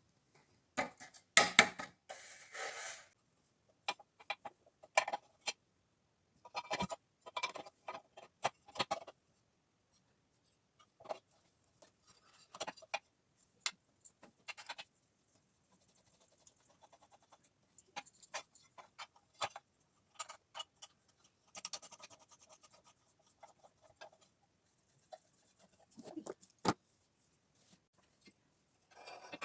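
Irregular clicks, knocks and short rustles from unpacking and handling the sander's parts and packaging, with the loudest bursts about a second in and again near the end.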